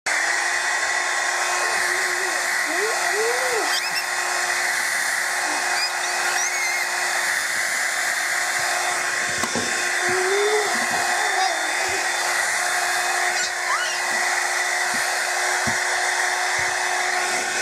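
Hair dryer running steadily with a constant whine. A few brief rising-and-falling vocal sounds come over it, about three seconds in and again near the middle.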